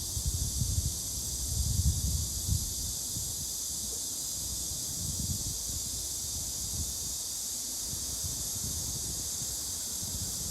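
Steady high-pitched hiss of outdoor background noise, with low rumbling buffets in the first three seconds, like wind or handling on the microphone. No bird calls stand out.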